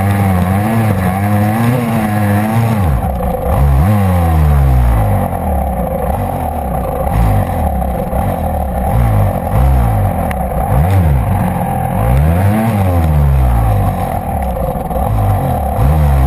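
GasGas enduro motorcycle engine running close up, fairly steady for the first few seconds, then revved up and back down again and again in short bursts. The bike is stuck just short of the top of a sandy climb, its rear wheel blocked by a stone.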